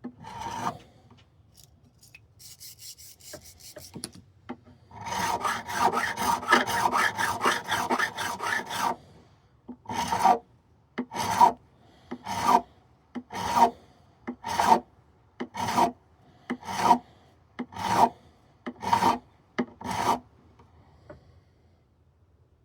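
Metal frets of a Martin D-16 acoustic guitar being levelled with abrasive strokes that scrape along the fret tops. First comes a fast run of back-and-forth strokes, then about ten slower single strokes at roughly one a second.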